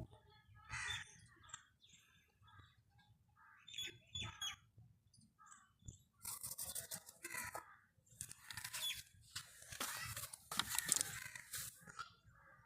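Birds calling: short scattered calls, then longer rasping, caw-like calls about halfway through that are loudest near the end.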